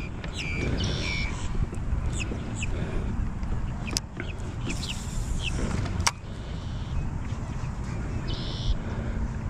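Small birds chirping in short, quick downward-sweeping calls over a steady low rumble, with two sharp clicks about four and six seconds in.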